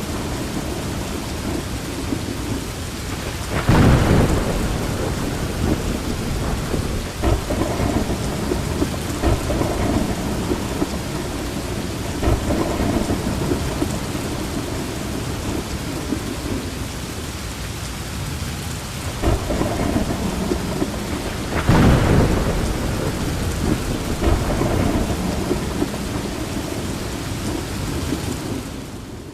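Steady heavy rain with low rolling thunder throughout a thunderstorm, with two louder thunderclaps, about four seconds in and about twenty-two seconds in. The sound dips briefly near the end.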